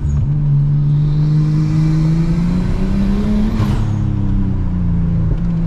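Nissan Skyline R34 GT-T's turbocharged RB25DET straight-six pulling hard under acceleration. Its pitch rises steadily for the first three seconds or so, then drops and holds steady toward the end.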